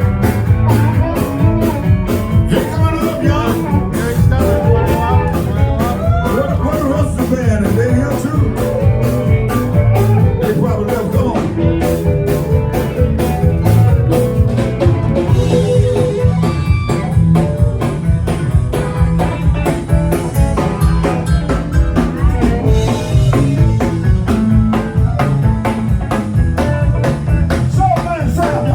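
Live electric blues band playing an instrumental passage: drums keep a steady beat under the bass, while a lead line plays bent, sliding notes over the top.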